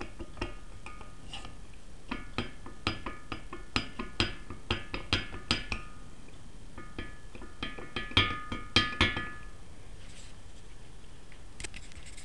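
Royal Enfield piston knocking against the wall of its cylinder barrel in two runs of quick metallic clinks, each one ringing briefly. The piston has a very large clearance in the bore, the wear behind piston slap.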